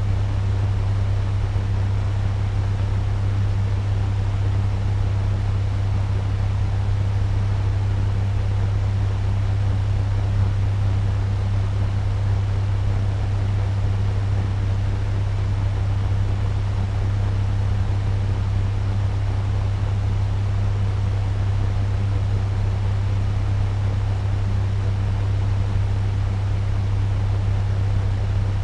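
Turbo fan running steadily at medium speed: a deep, even hum under a constant rush of moving air.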